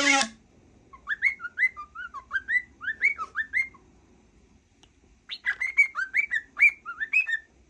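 Cockatiel chirping a quick series of short rising whistled notes, about three a second, in two runs with a pause of a second or so between them.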